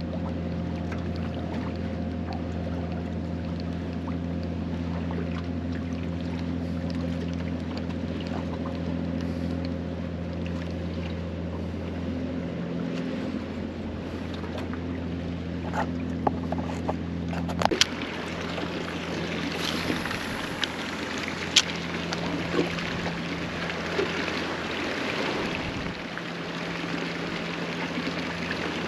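Boat motor running steadily with a low, even hum. About 18 seconds in the hum mostly drops away, leaving a hiss with scattered small clicks.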